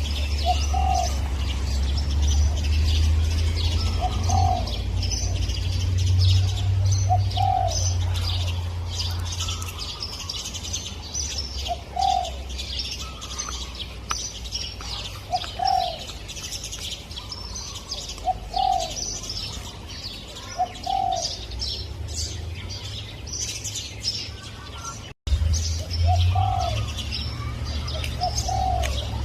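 A spotted dove cooing: short soft coo notes repeated every second or two, over a busy background of high chirps from smaller birds. A low rumble runs underneath, and the sound drops out for an instant about 25 seconds in.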